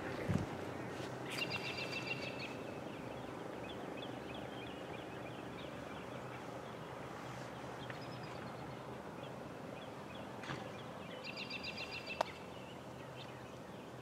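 Outdoor background with a faint steady low hum. A bird gives a short rapid trill about a second and a half in and again about ten seconds later, and there are a couple of sharp clicks.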